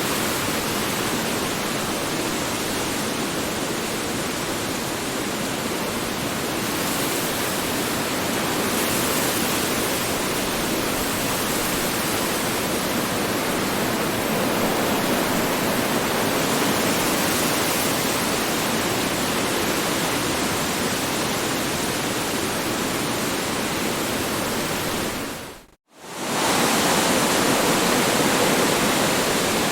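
Strong wind blowing steadily with slow swells. It briefly fades out to silence and back about 26 seconds in, where the recording loops.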